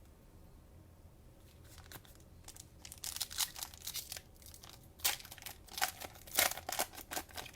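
Cellophane wrapper of a trading-card cello pack being torn open and crinkled: a run of sharp crackles starting about three seconds in.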